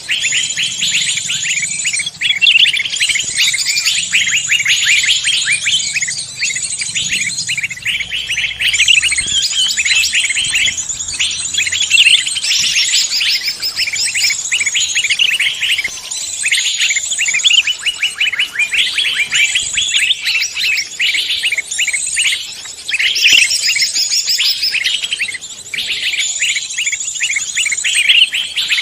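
Dense chorus of many songbirds chirping and twittering rapidly at high pitch without a break, a mixed forest-bird lure recording (suara pikat).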